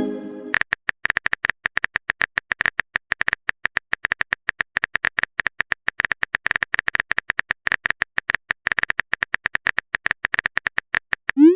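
Rapid, even clicking of a phone keyboard typing sound effect, marking a text message being typed. A chiming message tone fades out in the first half-second, and a quick rising tone starts just before the end as the next message pops up.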